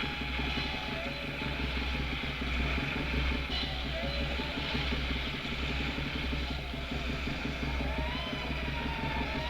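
Fire-scene sound effect: a fire engine's motor running steadily under a constant hiss of noise, with faint distant shouting near the end.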